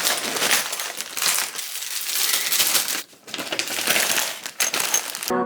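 Rustling of packaging and small items clicking and clinking together as hangover recovery kit bags are packed by hand, with a brief lull about three seconds in.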